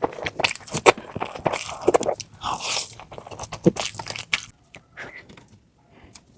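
A person eating close to the microphone: crisp crunching bites and wet chewing, dropping off after about four and a half seconds to a few faint mouth clicks.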